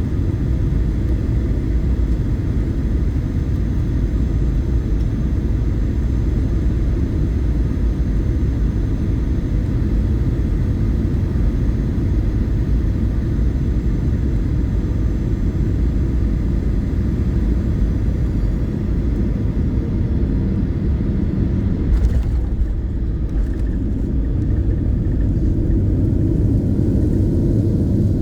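Airliner cabin noise during the landing: a steady low rumble of engines and airflow, with a brief knock about two-thirds of the way through.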